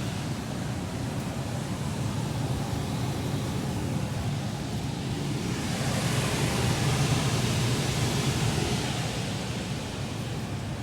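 Commercial package air-conditioning unit running: a steady low hum under a rush of fan air, which swells for a few seconds about halfway through.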